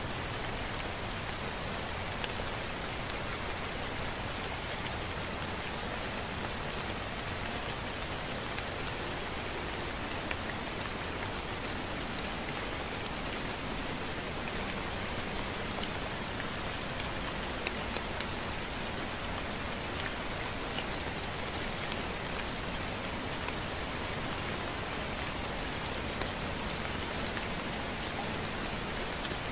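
Steady light rain falling, with scattered drops ticking close by.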